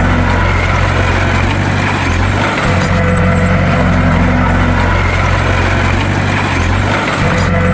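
Bulldozer's diesel engine running steadily with a low, even hum, dipping briefly twice, about four and a half seconds apart.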